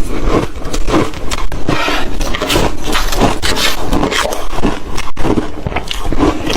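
Ice being bitten and chewed close to the microphone: a loud, continuous run of irregular crunches and crackles.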